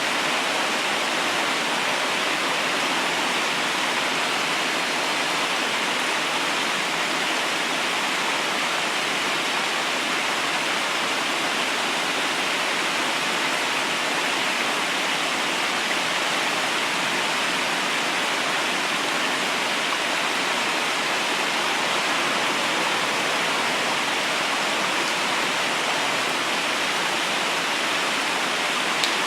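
Fast-flowing river water rushing steadily over stones, an even, unbroken hiss.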